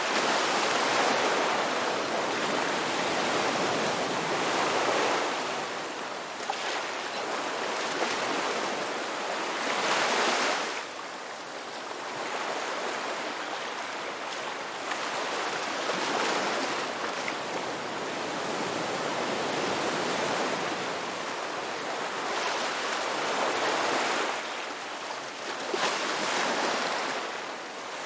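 Ocean waves breaking and washing up a beach, the surf swelling and easing every few seconds with no pause between.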